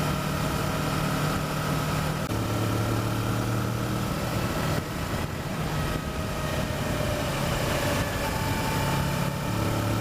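Kawasaki Versys motorcycle engine running steadily at cruising speed, under heavy wind buffeting on a helmet microphone. The engine note shifts pitch a few times.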